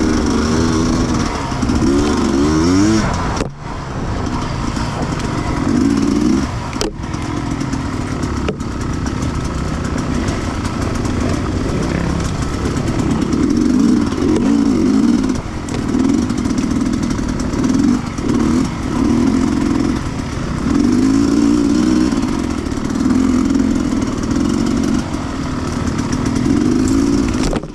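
Sherco 300cc two-stroke enduro motorcycle engine being ridden off-road, its revs rising and falling continually with the throttle. The revs drop off sharply for a moment about three and a half and seven seconds in.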